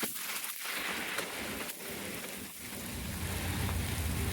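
Steady rain falling and pattering on surfaces during a storm. About three seconds in, a low steady mechanical hum comes in under the rain.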